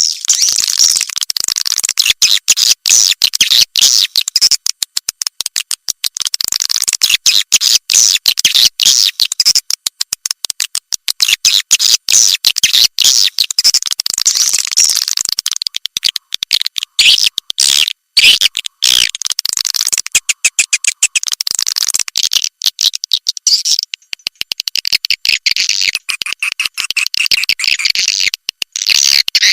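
Swiftlet lure call: dense, rapid high twittering and chirping of swiftlets, a calling-sound track of the kind played to draw swiftlets into a bird house. It runs on without a break in character, chopped by many very short gaps, with nothing below a fairly high pitch.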